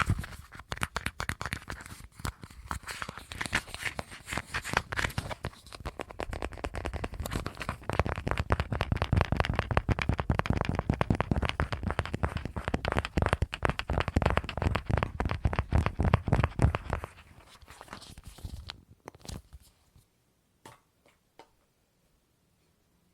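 Rapid ASMR tapping on objects: a dense, fast patter of clicks and taps that grows busier and louder in the middle, then thins to a few scattered taps about 17 s in and fades to near quiet near the end.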